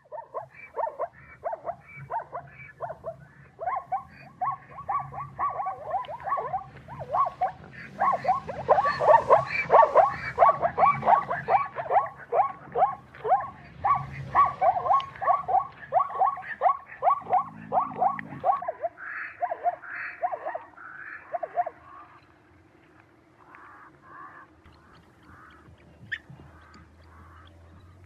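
Zebras calling: a long run of quick, repeated yipping barks, densest and loudest about a third of the way in, stopping about two-thirds of the way through, followed by fainter scattered calls.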